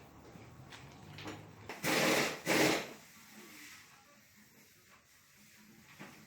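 Two short bursts of a power tool, each about half a second, a few tenths of a second apart, as the wheel bearing job is being finished.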